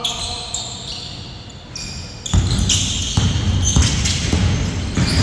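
Basketball being bounced on an indoor court during a game, with short high squeaks, likely from sneakers. About two seconds in it gets louder, with a run of thuds.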